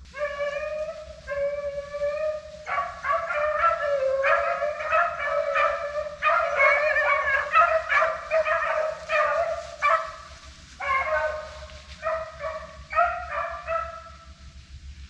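A pack of deer hounds baying as they run a deer. Two long, drawn-out bawls come first. Then several dogs cry at once, overlapping, for several seconds, before the voices thin out toward the end.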